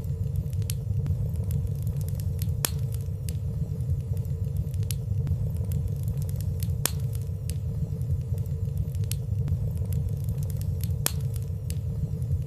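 Wood fire burning in a fireplace: a steady low rumble of flames with light, scattered crackles about once a second and a few sharper snaps.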